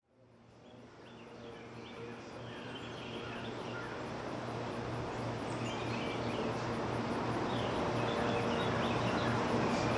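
Morning ambience fading in from near silence: birds chirping over a steady low hum and a wash of background noise.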